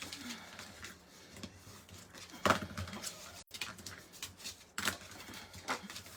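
Card stock being folded and burnished along its score line: scattered papery rubs and taps, the loudest about two and a half seconds in.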